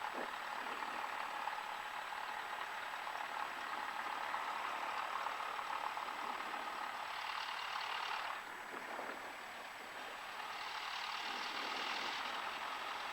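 A Cessna 172 cockpit with the engine running, heard as a steady muffled hiss without its low rumble. The noise grows brighter and hissier about seven seconds in, then dips briefly a second or two later.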